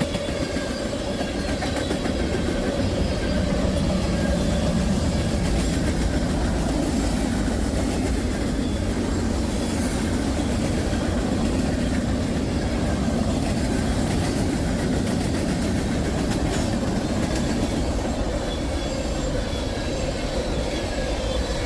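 Freight train of tank cars rolling past, a steady rumble with the wheels clacking over the rail joints.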